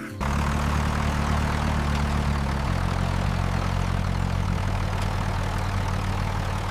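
An engine running steadily with a low hum and a hiss over it, starting suddenly. Its pitch drops a step about two and a half seconds in.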